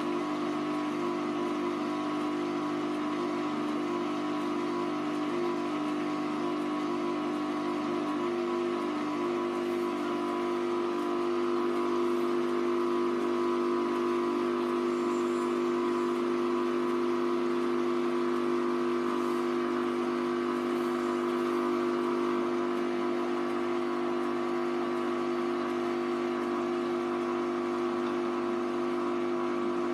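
Hoover Vision Tech washing machine's drum motor running at a steady speed with a held whine. The pitch shifts and settles about nine seconds in, and it gets slightly louder soon after.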